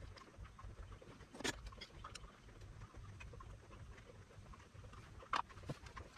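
Scattered faint clicks and taps over a low steady hum, with two sharper clicks, one about a second and a half in and one near the end.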